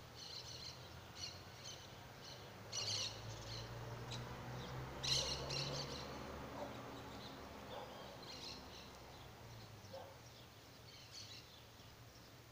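Birds chirping in short, repeated high clusters, loudest about three and five seconds in, with a faint low steady hum underneath during the first half.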